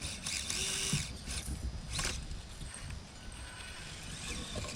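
Small RC rock crawler's electric motor whining in short bursts of throttle, a longer one in the first second and a brief one about two seconds in, as the truck tries to climb back after a fall.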